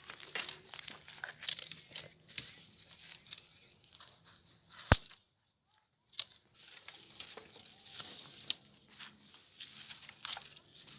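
Dry sticks, twigs and brush crackling and snapping irregularly as they are handled or trodden on, with one sharp snap about five seconds in.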